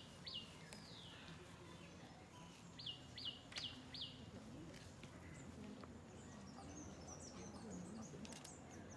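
Faint birdsong: one bird repeats a short, sharp falling note about three times a second in two brief runs, at the start and around three seconds in, and other birds give thin, higher chirps in the second half.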